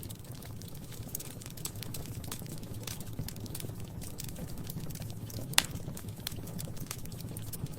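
Wood fire crackling in a fireplace: a steady low rumble of flames with irregular small crackles, and one sharp loud pop about five and a half seconds in.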